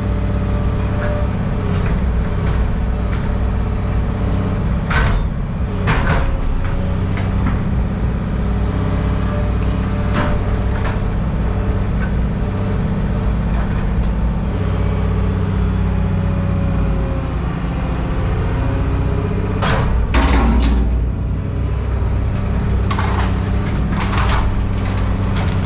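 A heavy machine's engine running steadily at a low hum, with loose scrap metal clanking and banging now and then.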